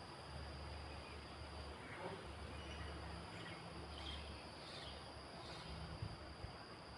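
Faint wind, with low rumbling gusts coming and going under a steady hiss. A few faint high chirps sound in the middle.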